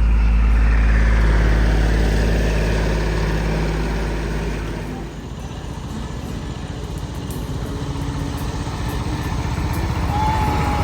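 Tractor engine running steadily on a ride. Its low drone eases off about five seconds in, then builds again toward the end.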